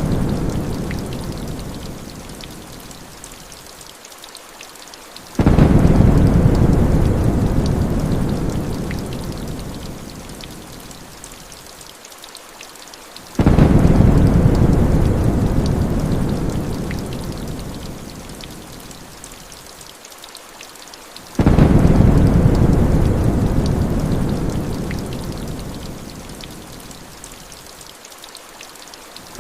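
Rainstorm with rumbles of thunder. Each rumble starts suddenly and fades away over several seconds, and they repeat at an even spacing of about eight seconds: one is fading at the start, then three more follow.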